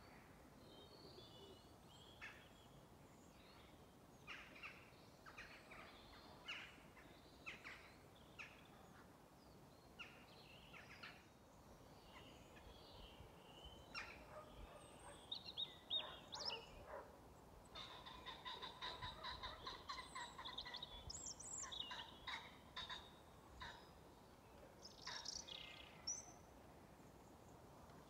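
Faint calls of birds settling to roost at dusk: scattered short calls, then a few seconds of rapid rattling notes about two-thirds of the way through.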